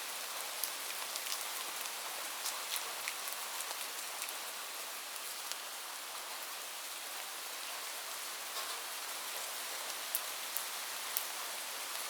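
Steady rain falling on a surface, an even hiss with scattered sharp ticks of individual drops hitting.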